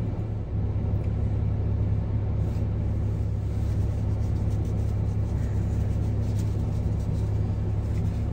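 Car engine idling with the heater fan blowing to defog the windows, heard from inside the cabin: a steady low hum.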